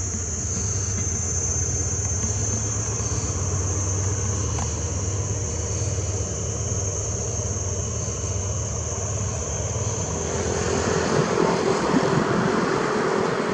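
Diesel locomotive engine running steadily with a low hum and a high, steady whine; about ten seconds in a louder rushing noise comes in, as of the train starting to move or another train passing.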